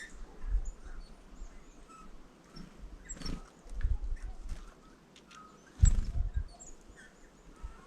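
Small birds at a feeder giving short, high chirping calls, with scattered sharp taps and a few low thumps, the loudest about six seconds in.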